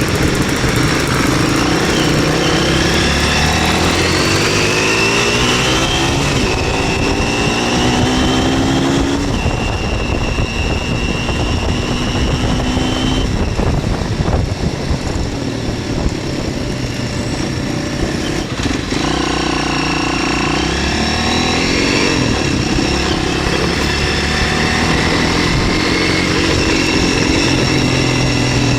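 MZ 125 SX scrambler's 125 cc four-stroke single-cylinder engine heard on the move: it revs up through the gears in rising steps, holds a steady pitch, eases off briefly in the middle, then pulls up through the revs again and settles into steady running.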